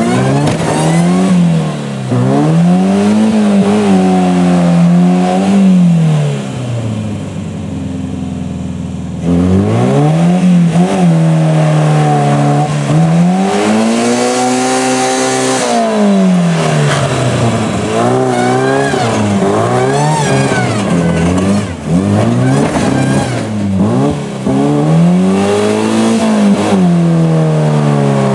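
Peugeot 309's engine revved hard in repeated surges, its pitch rising and falling back every couple of seconds as the car is thrashed over rough ground, with a short easing-off early on.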